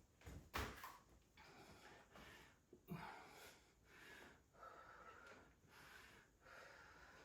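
Heavy, rhythmic breathing of a woman exercising hard through a set of burpees, a breath about once a second. Two soft thumps, one near the start and one about three seconds in.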